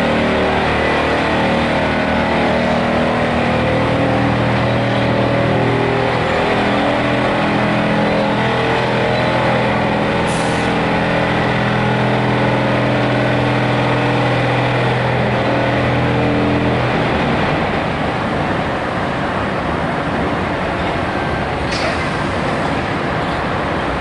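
Heavy diesel engine running steadily, then stopping about seventeen seconds in, leaving a steady background rumble. A brief sharp sound comes near the middle and another near the end.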